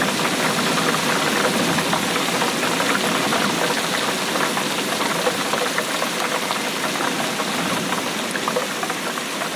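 Steady rainfall, a dense patter of many small drops.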